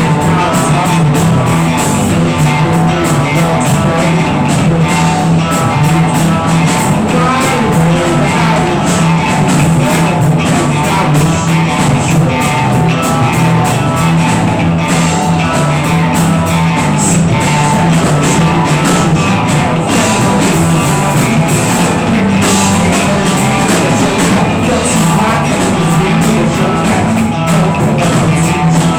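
Rock band playing a loud, steady improvised jam.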